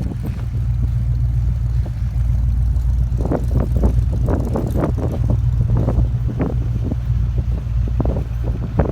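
Steady low rumble of a car in heavy snow. From about three seconds in, a run of short irregular crunching knocks joins it.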